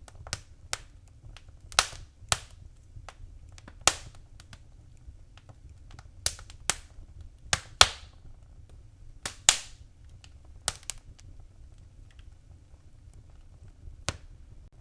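Wood fire in a fireplace crackling: irregular sharp pops and snaps, some much louder than others, over a faint low rumble.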